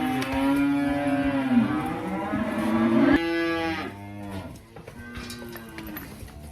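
Dairy cows mooing: one long, loud moo for about the first three seconds, then quieter, shorter moos.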